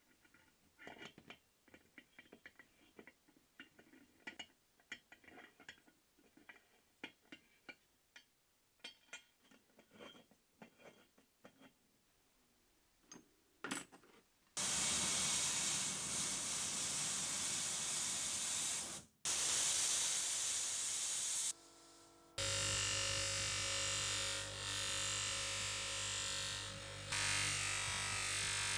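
A series of light clicks and taps, then a loud, steady hiss lasting about seven seconds with a brief break in the middle. Background music follows.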